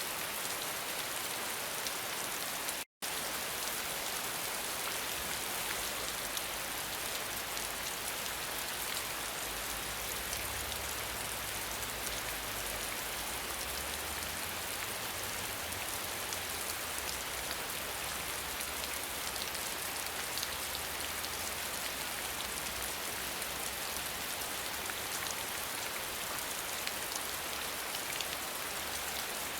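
Steady, heavy rainfall: a dense hiss of rain with fine patter of individual drops, and a faint low rumble underneath through the middle. The sound cuts out completely for a split second about three seconds in.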